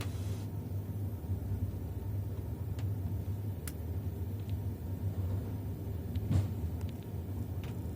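Passenger train running along the rails: a steady low rumble with a few short sharp clicks now and then.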